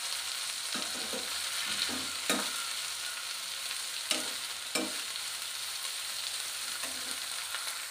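Drumstick flowers and onions sautéing in oil in a nonstick kadai: a steady sizzle, with a metal spatula scraping and knocking against the pan about six times as it stirs.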